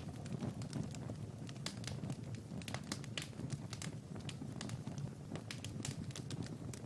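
Wood fire in a fireplace crackling: many small irregular pops and snaps over a low, steady rumble of burning.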